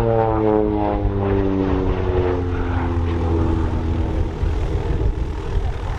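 An OV-10 Bronco's twin Garrett T76 turboprop engines droning as it flies past, the engine tone falling in pitch over the first few seconds as it passes, then a steady low drone as it moves away.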